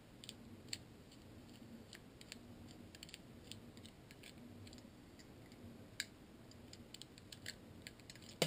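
Faint, irregular light clicks and ticks of a Phillips screwdriver turning a small screw out of a Hi-Capa airsoft pistol.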